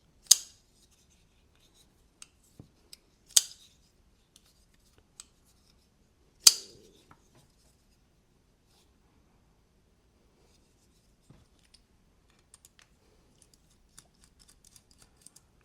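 Folding knife's blade snapping sharply open or shut, three loud metallic clicks about three seconds apart with a brief high ring, the action of a freshly adjusted pivot on thick washers; faint small clicks of handling follow near the end.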